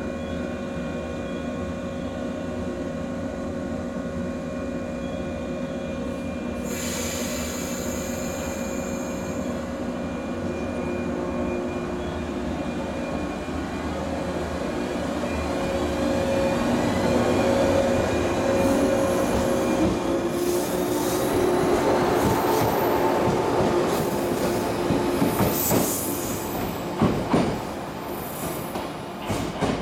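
Electric commuter train standing with a steady hum, a hiss about seven seconds in, then pulling out and growing louder as it moves off. In the last ten seconds its wheels click over rail joints and squeal high through the points.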